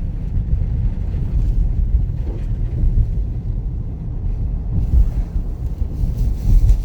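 Low, steady rumble of a car driving, heard from inside the moving car: road and wind noise with uneven buffeting on the microphone.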